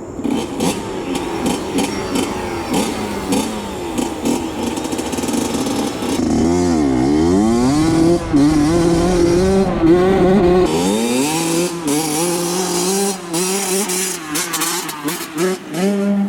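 Honda CR80 two-stroke dirt bike engine revving hard as it is ridden into the river. About six seconds in the revs drop sharply and climb back, then hold high and steady.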